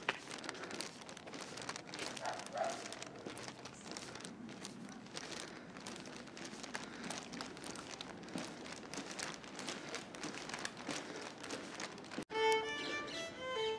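Dense crackling and rustling made of many small clicks. Near the end it cuts off suddenly and violin music begins.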